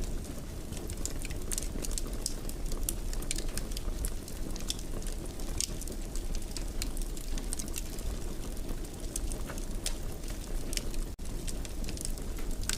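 Wood fire in a fireplace crackling, with frequent small irregular pops and snaps over a steady low rumble. The sound drops out for a split second near the end.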